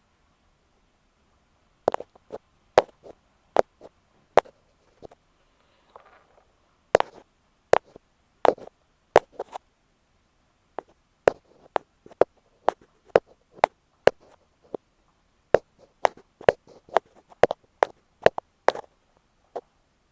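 Close-up tapping on an earphone microphone in ear-cleaning ASMR style: sharp, dull taps at uneven intervals, sometimes several a second. The taps begin about two seconds in, with a brief soft rustle around six seconds.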